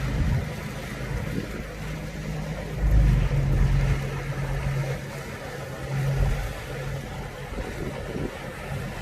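A low, steady engine hum with wind buffeting the microphone, the rumble swelling about three seconds in and again around six seconds.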